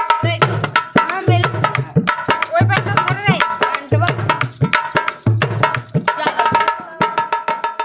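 Indian folk music played without singing: a hand-drum rhythm with deep strokes about every two-thirds of a second, under a wavering melody line, getting quieter near the end.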